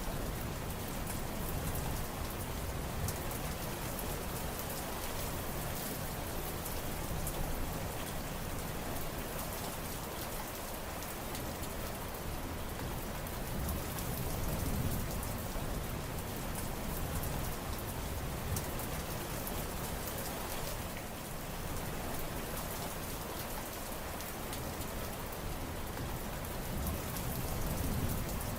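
Steady heavy rain falling, a dense patter of drops over an even hiss, with a low rumble that swells and eases every few seconds.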